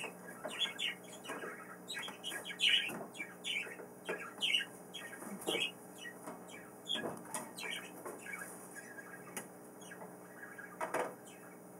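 Pet birds chirping: a string of short, sharp chirps that fall in pitch, coming one after another at an uneven pace.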